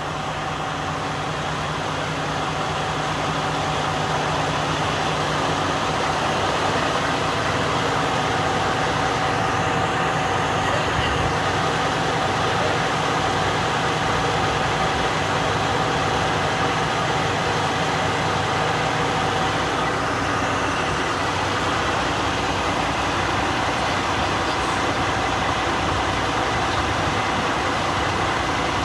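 A heavy vehicle's engine idling steadily, a continuous drone with several steady tones running through it.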